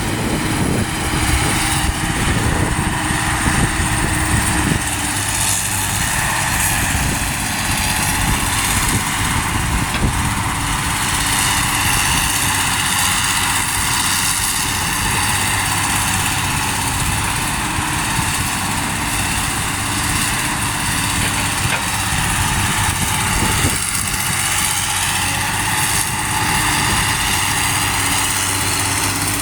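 Heavy truck's diesel engine running steadily at idle: a continuous low rumble with no revving.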